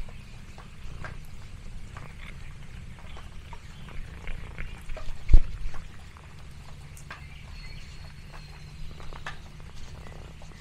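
Domestic cat purring steadily, with scattered light clicks and rustles and one thump about five seconds in.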